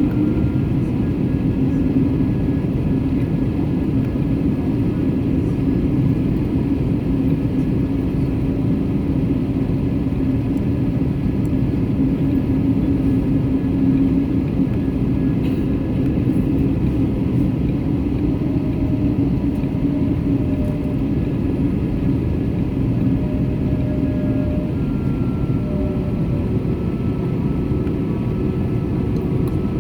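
Airbus A321neo's Pratt & Whitney PW1100G geared turbofans and rushing air, heard inside the cabin as a steady, loud rumble with a steady low hum that fades out about two-thirds of the way through.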